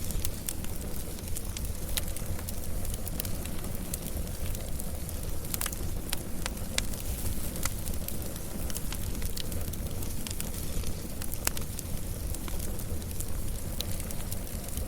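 Wood fire burning steadily, with a low rumble and frequent sharp crackles and pops scattered throughout.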